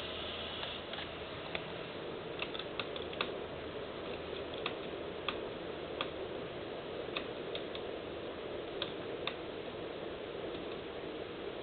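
Steady aircraft noise from an Airbus A321 around its landing, with a dozen or more irregular sharp clicks or rattles scattered through it.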